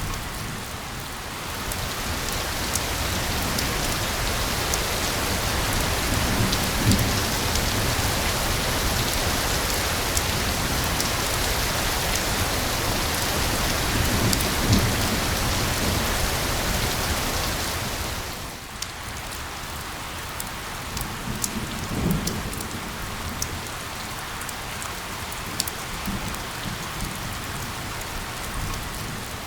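Steady heavy rain, a dense hiss with scattered sharp drop ticks, growing louder after the first couple of seconds and easing off about two-thirds of the way through. A few brief low rumbles sound under it.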